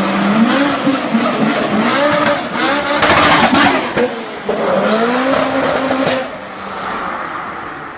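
A performance car's engine revving hard, its pitch rising and falling several times as it accelerates through the gears. There is a loud rushing burst about three seconds in. After about six seconds the sound drops to a quieter, steadier rumble.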